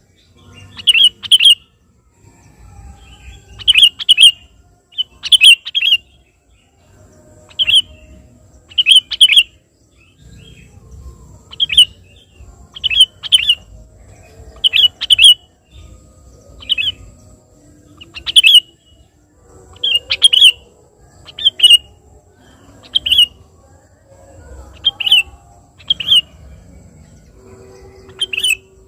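Male sooty-headed bulbul (kutilang) calling repeatedly: short, sharp, loud chirps, often in pairs, every second or two. It is the lively calling used to challenge a rival.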